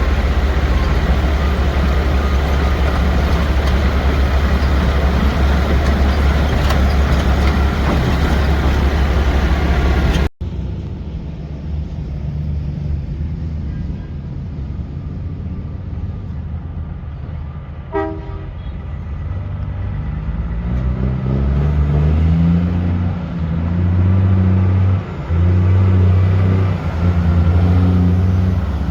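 Heavy truck engine running close by with a deep steady hum, cut off abruptly about a third of the way in. Quieter vehicle noise follows, with one brief pitched beep about midway, then a truck engine revving up and dropping back several times near the end.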